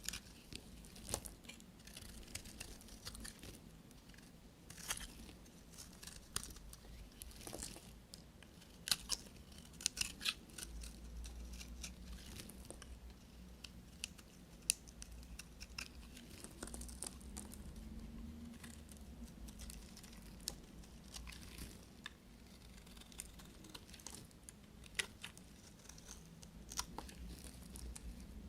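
A blade cutting through dry bar soap, giving irregular crisp crackles with scattered sharp snaps.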